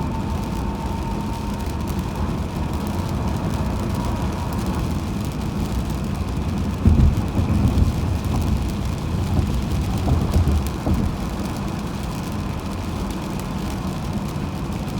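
Car driving on a highway: steady low road and tyre rumble. The rumble grows louder and uneven for a few seconds starting about seven seconds in.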